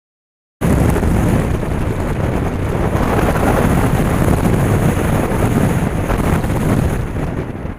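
Wind rushing over the microphone of a moving motorcycle's camera, a loud, dense rumble that cuts in abruptly about half a second in and eases slightly near the end.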